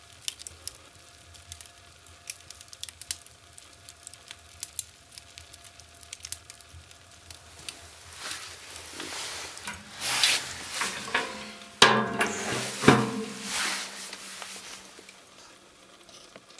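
Wood fire in a fireplace crackling, with scattered sharp pops. In the second half a louder rushing hiss builds, with two sharp knocks about twelve and thirteen seconds in.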